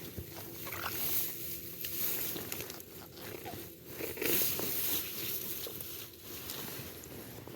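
Irregular rustling and squelching of someone moving and handling things in wet grass, mud and shallow water while setting eel traps.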